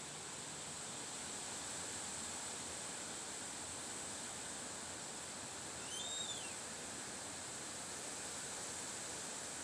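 Steady wind noise, with one short bird chirp rising and falling in pitch about six seconds in.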